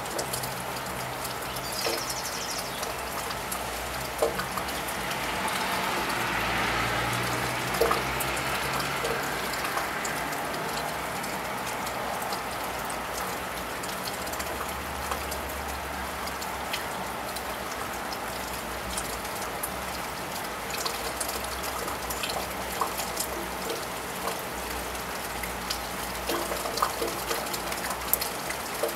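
Steady rain pattering and dripping on a wet tiled roof, with scattered sharp drops. A car passes on the wet road about five seconds in, its tyre hiss swelling and fading over a few seconds.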